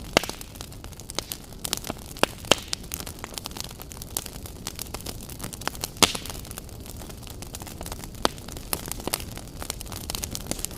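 Wood fire in a fireplace crackling: irregular sharp pops and snaps over a steady hiss, the loudest pops just after the start, at about two and a half seconds, and at six seconds.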